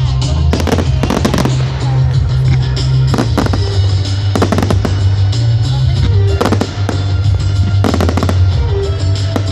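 Display fireworks going off in repeated sharp bangs, some in quick clusters, over loud music with a heavy, steady bass.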